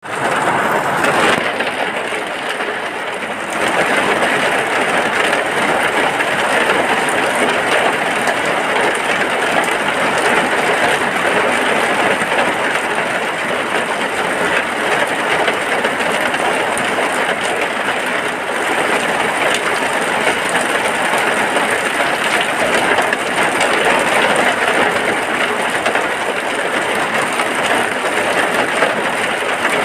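Rain falling steadily, heard from inside a hut: a dense, even hiss, a little thinner for a couple of seconds near the start.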